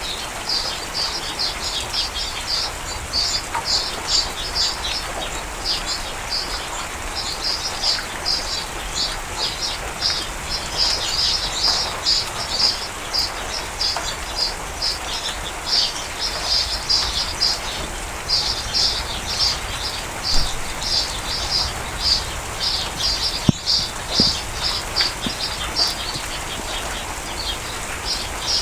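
Steady rain falling, with birds chirping in quick runs of high, repeated notes throughout. A single sharp tap sounds once, late on.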